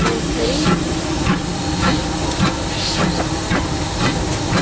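Disneyland Railroad steam locomotive running, heard from inside its cab: a steady steam hiss with a regular beat a little under twice a second.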